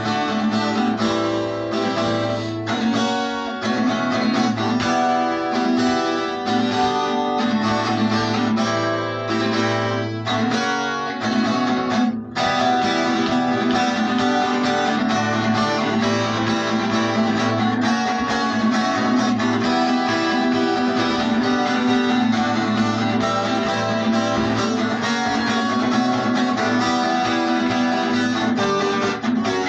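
Guitar strummed in steady rhythmic chords, with a brief break about twelve seconds in.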